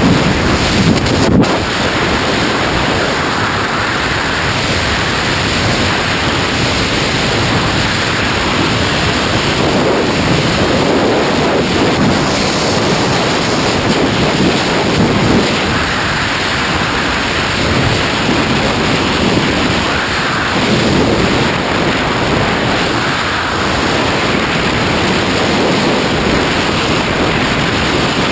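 Loud, steady rush of freefall wind blasting over the camera microphone during a tandem skydive, with slow swells in the low rumble every few seconds.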